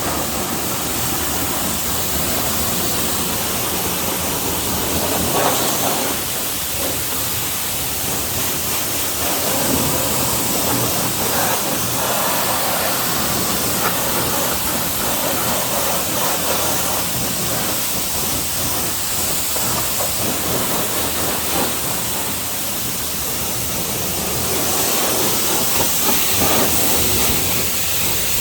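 High-pressure washer spray hissing steadily against a car's body, swelling and easing as the wand moves.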